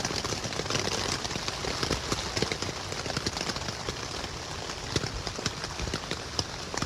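Steady rain falling on a tent: many small drop hits over a continuous hiss.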